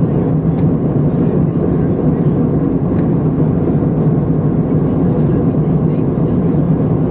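Steady low cabin noise inside an Airbus A320 airliner in flight: engine hum and airflow rushing past the fuselage, with a faint click about three seconds in.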